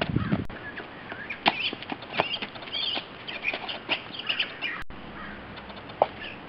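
Outdoor ambience with small birds chirping now and then, along with a few sharp taps. The sound drops out for an instant a little before five seconds in.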